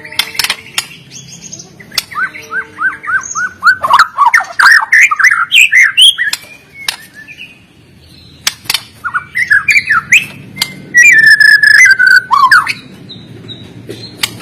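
White-rumped shama singing vigorously in the aggressive 'fighter' style: a varied run of gliding whistles, sharp clicks and chattering notes, with a fast series of repeated rising notes a couple of seconds in and a long held, slightly falling whistle near the end.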